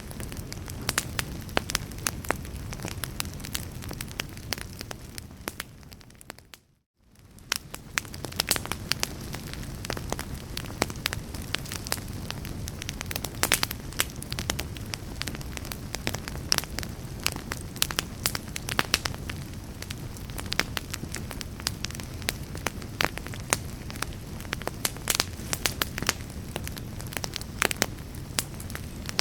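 Wood fire burning in a fireplace: logs crackling and popping in quick irregular snaps over a low, steady rush of flame. About seven seconds in, the sound briefly fades to near silence, then comes back up.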